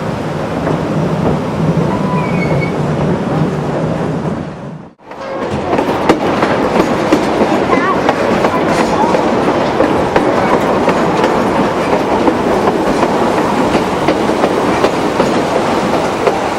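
Durango & Silverton narrow-gauge train heard from aboard a passenger car: steady running rumble with rattling wheel clacks over the rail joints. The sound drops out briefly about five seconds in, then the clacking comes back denser.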